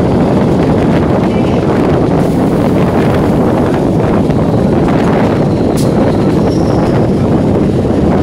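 Electric multiple unit (EMU) local train running at speed, heard on board: a loud, steady rumble of the running train with wind rushing over the microphone. A single sharp click about six seconds in.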